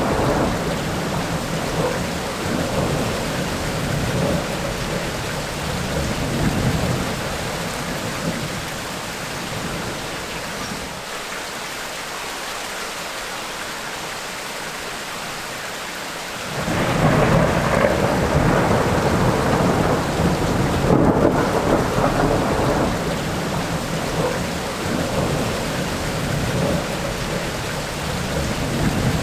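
Thunderstorm with steady, heavy rain and rolling thunder. The thunder rumble dies away for a few seconds past the middle, then a loud roll of thunder breaks in suddenly a little after halfway.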